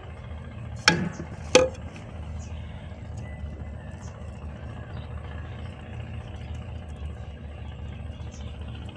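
Steady low mechanical hum in the background, with two sharp knocks a little under a second apart about a second in.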